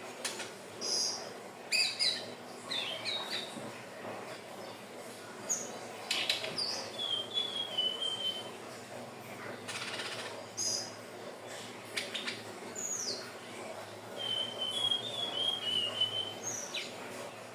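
Indigo flycatcher (sikatan ninon) singing: short high chips and two longer phrases of jumbled notes that slide downward, one about seven seconds in and one near the end.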